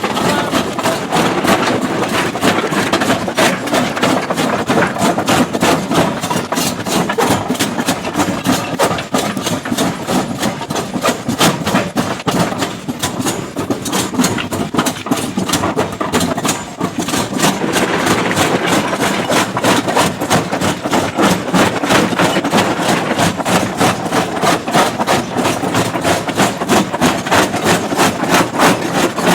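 Heavy stone-crushing machinery breaking rock: a diesel engine runs under a fast, steady train of hard knocks, easing for a moment about halfway through.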